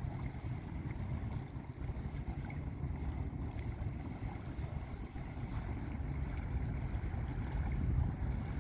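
Lake waves washing onto a beach, a steady low rushing of water.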